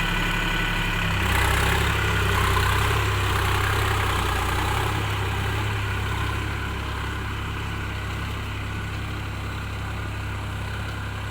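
Diesel tractor engine running steadily. It picks up a little about a second in, then grows slowly fainter over the second half.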